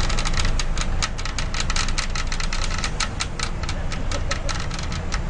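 Strong wind buffeting the microphone as a steady low rumble, with a dense, irregular patter of sharp ticks over it, several a second.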